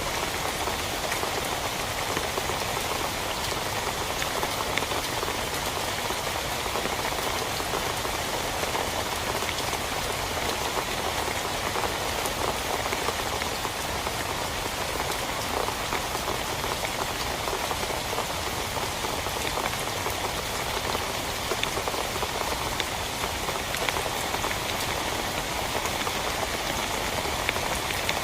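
Rain falling steadily on a tent: a dense, even hiss made of many small drop hits, with no let-up.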